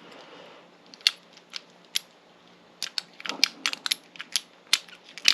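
Irregular small metallic clicks and ticks of hand tools working inside a pin-tumbler lock cylinder as it is picked. There are a few scattered clicks at first, then a quicker cluster in the second half.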